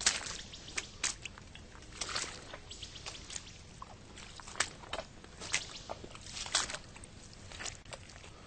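Boots squelching through deep mud, an irregular run of short wet squishes as a hiker walks.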